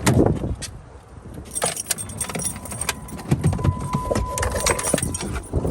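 Rapid metallic jingling and clinking, with a thin steady tone sounding from about two seconds in until nearly five seconds.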